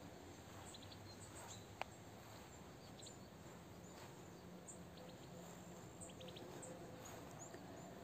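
Faint outdoor quiet with small birds chirping here and there in short high notes, and a single sharp click about two seconds in.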